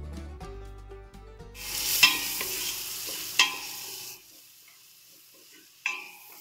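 Garlic and onions sizzling in butter in a stainless steel pot, stirred with a wooden spoon. The sizzle swells sharply about a second and a half in, with two loud knocks of the spoon against the pot, then drops to a faint sizzle with light taps. Background music runs under the first four seconds and then stops.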